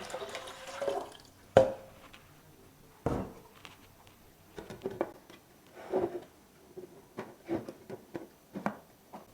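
Water pouring into an ultrasonic humidifier's water tank, ending about a second in. It is followed by a sharp knock, then a string of lighter knocks and clicks as the humidifier is handled.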